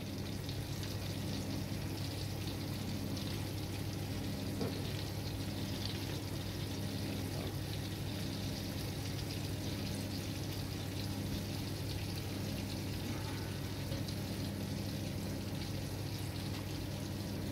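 Floured pollock pieces frying gently in hot oil in a frying pan, a steady, even sizzle. A steady low hum sits underneath.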